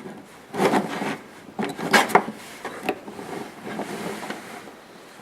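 Die-cast toy monster trucks being handled and moved about: irregular rubbing and scraping with a few light clicks and knocks, the sharpest about two seconds in.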